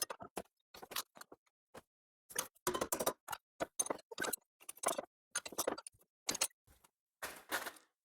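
Irregular short clinks and knocks of hand tools and sheet-steel repair pieces being handled, with silent gaps between them.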